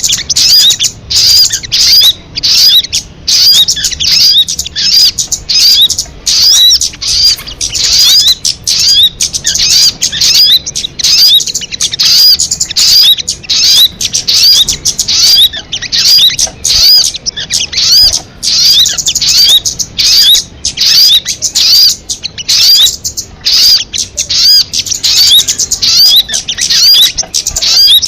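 Sogon bird calling: a loud, fast, unbroken string of short high chirps, about three or four a second, each note rising and falling in pitch.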